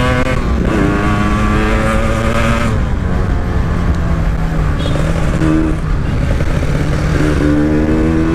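Two-stroke Kawasaki Ninja engine in a Yamasaki motorcycle running through its exhaust as the rider revs it and rides on. The pitch climbs about a second in, drops back near three seconds, holds lower, then climbs again near the end.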